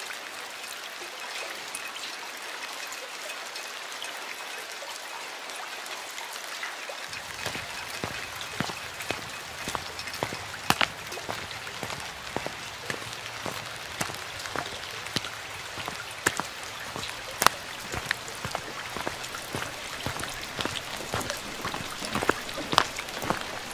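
Steady rain falling. About seven seconds in, the sound grows deeper and fuller, and sharp single drops start striking close by at irregular moments.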